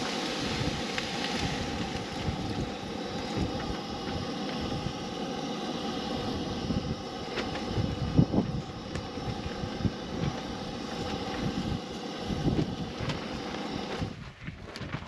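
Strong gusty wind buffeting the microphone, with a low rumble that rises and falls over a steady rushing noise. It drops off sharply near the end.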